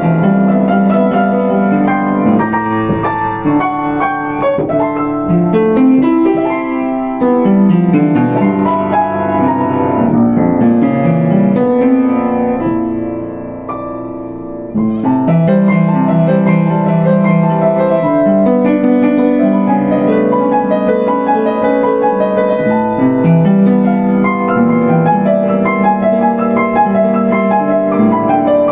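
Yamaha U5 upright piano played solo: a flowing passage of many quick notes that grows softer toward the middle, then comes back full from about halfway through.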